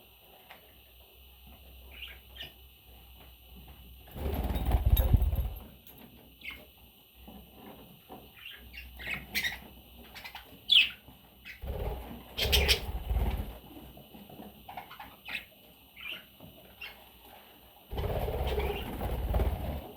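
Pet budgerigars making short, high chirps throughout, with three bursts of wing flapping, each about two seconds long.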